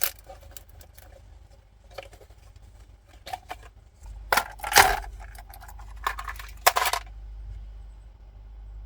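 Ice cubes taken from a freezer and dropped into a glass of iced coffee: a scattering of clinks and knocks, with a longer clatter about four to five seconds in and again near seven seconds. A low steady hum comes in about four seconds in.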